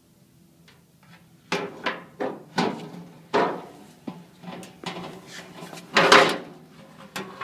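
Metal drawer runner being worked into the slots of a filing cabinet drawer body: a run of knocks and clacks starting about a second and a half in, the loudest about six seconds in.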